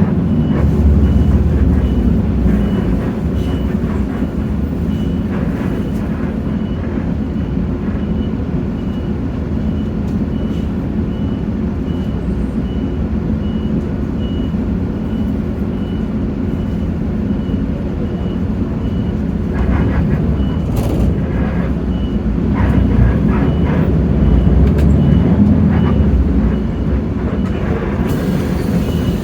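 Hino J08E-VN 7.7-litre diesel engine of a Hino RK8JRVA-KJF city bus running under way, growing louder for a few seconds about two-thirds of the way through. A short high beep repeats evenly about twice a second throughout.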